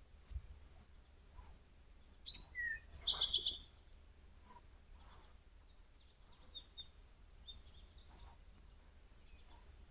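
Wild birds calling: a short high call a little after two seconds in, then a loud burst of rapid repeated high notes just after three seconds, with fainter high chirps later, over faint scattered ticks.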